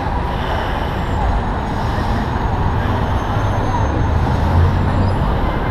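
City street traffic noise with a steady low rumble, heard from a GoPro on a moving bicycle.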